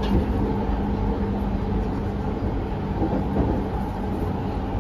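Running noise inside a JR 209 series 1000 subseries electric commuter car with Mitsubishi GTO-VVVF traction: a steady rumble from wheels and track, with a steady low hum.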